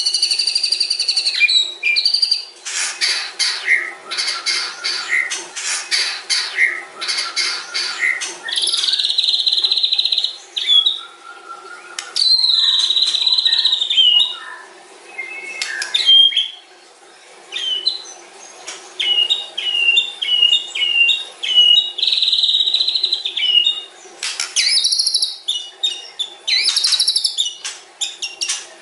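White-rumped shama (murai batu) singing a long, varied song: a rapid series of sharp strokes, held whistles and runs of short repeated notes.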